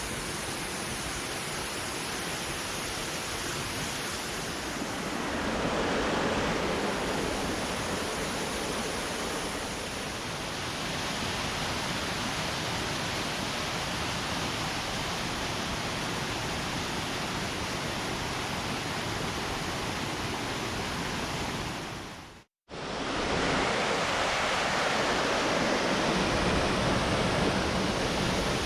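Steady rush of a mountain stream and small waterfall, an even hiss of falling water. It swells a few seconds in, cuts out for a moment a little after twenty seconds, and comes back slightly louder.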